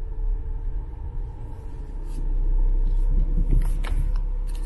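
Low rumble of a car on the move, engine and road noise mixed together, with a faint steady hum above it; it grows louder about two seconds in.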